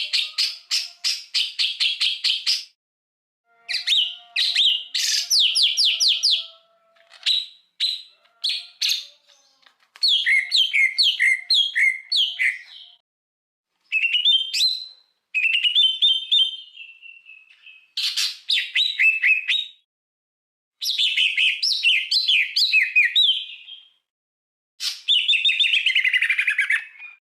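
Recorded songbird song of the kind used as a masteran training track for caged birds. It comes as about nine bursts of rapid chattering trills and slurred whistles, separated by short gaps of silence.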